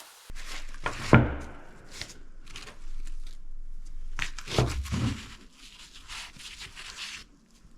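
Hand work on a motorcycle engine: a run of short scraping and clicking strokes, with two heavier knocks, about a second in and again about four and a half seconds in.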